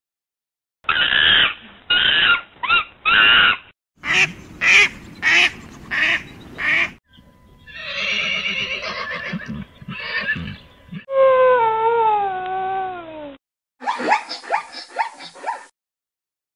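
A string of animal calls: a primate's loud calls in short bursts, then horse sounds ending in a long whinny that falls in pitch, then a zebra's quick, repeated barking calls near the end.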